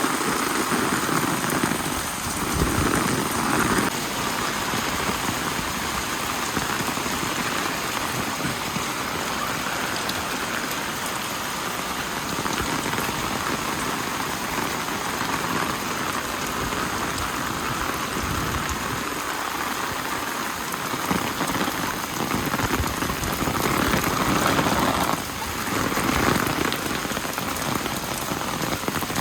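Steady heavy rain falling and pattering on surfaces, with small swells in loudness.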